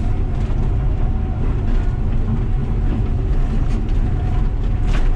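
Diesel engine of a 45-tonne Volvo crawler excavator running steadily under load, heard from inside the cab, with occasional clanks from its steel tracks as it drives over stony fill to crush and pack it down.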